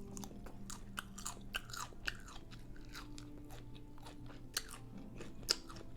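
Close-up chewing of a chorizo taco in a hard-shell taco boat: a steady run of many small crunches and mouth clicks.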